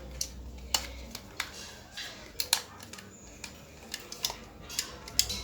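Irregular sharp clicks and light knocks of small plastic parts being handled and fitted together during reassembly of a hair dryer.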